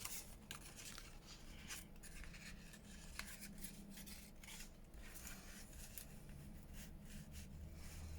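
Faint rustling and light taps of paper and card being handled and laid down, over a low steady hum.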